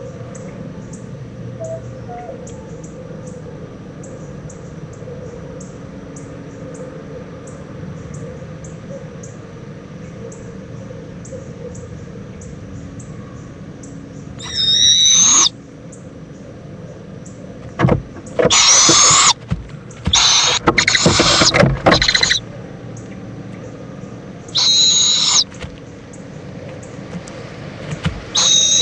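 Barred owlet's food-begging screeches: a series of harsh, high, hissing shrieks, each about a second long, starting about halfway in.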